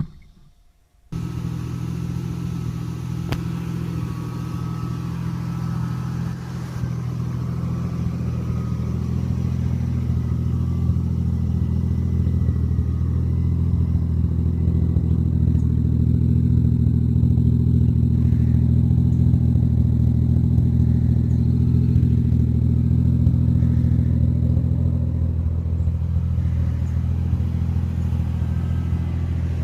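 Toyota 1JZ-GTE VVTi turbocharged straight-six in a Nissan Silvia S15 running steadily with a deep, even note, starting about a second in after a brief silence and slowly growing louder, with no sharp revving.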